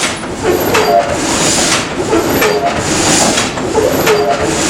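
Wind-driven sawmill's frame saws cutting a log into planks: a steady rasping with a creak that repeats about every one and a half to two seconds as the saw frame goes up and down.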